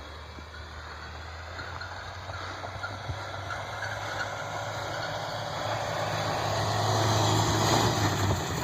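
Pickup truck engine running steadily, growing louder as it draws near. A rushing noise swells with it and peaks near the end.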